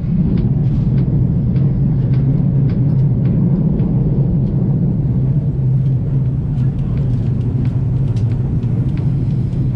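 Steady low rumble of the Argo Parahyangan passenger train running at speed, heard from inside the coach, with faint scattered ticks and rattles over it.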